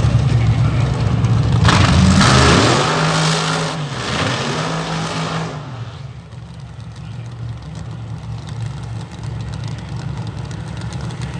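Vehicle engine revving hard and accelerating, loudest from about two to five and a half seconds in, then fading to a lower steady running sound.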